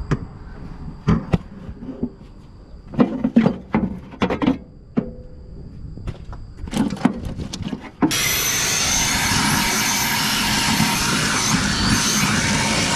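Irregular knocks and clatters of hard objects being moved about while rummaging through a storage compartment. After about eight seconds a loud, steady noise starts abruptly and runs on.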